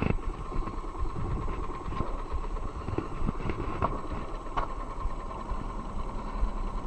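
Boat's outboard motor idling steadily, with a few light clicks over it.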